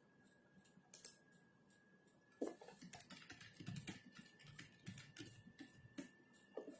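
Typing on a computer keyboard: a few scattered keystrokes, then a quick, irregular run of soft key clicks from about two and a half seconds in.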